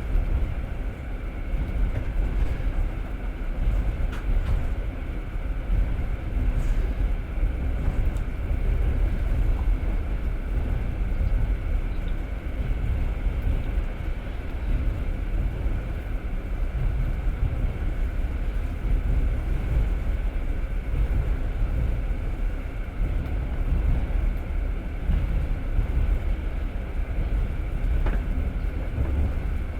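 Passenger train in motion, heard from inside the carriage: a steady low rumble of wheels on the track, with a few faint clicks.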